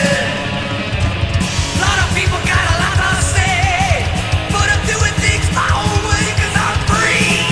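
Heavy metal song: a band with distorted guitars and pounding drums, and a male voice singing over it, his voice sliding up in a long rising note near the end.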